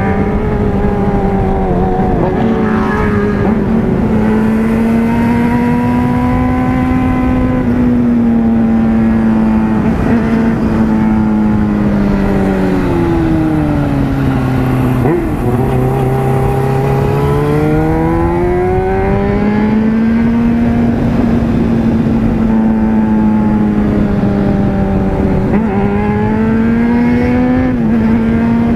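Motorcycle engine heard from the rider's seat, running at high revs under way, with wind rushing past. Its pitch holds high, falls steeply about halfway through as the bike slows into a bend, then climbs back as it accelerates out.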